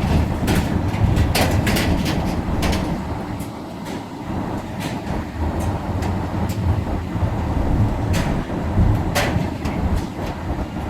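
Car rolling slowly along an auto-transport train's wagons, heard from inside the cabin: a steady low rumble with irregular sharp clacks.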